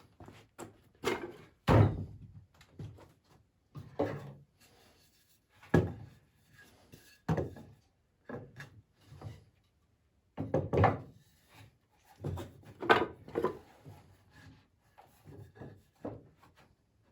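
Poplar boards of a porch swing knocking and rubbing as they are handled and set in place: a series of irregular wooden thunks a second or two apart, the loudest about two seconds in.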